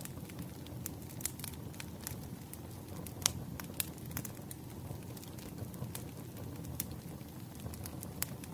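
Wood fire crackling: irregular sharp pops and snaps over a low steady rumble, with one louder pop about three seconds in.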